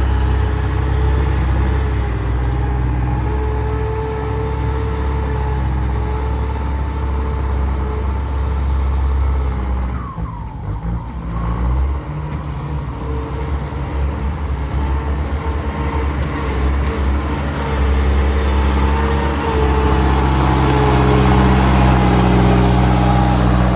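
Six-wheel truck's diesel engine running under load as it reverses over wet, slippery ground; it eases off briefly about ten seconds in, then picks up and grows louder toward the end.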